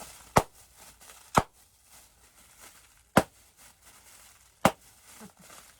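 Four sharp, separate clicks of small plastic raffle balls knocking as they are handled, spaced unevenly a second or more apart.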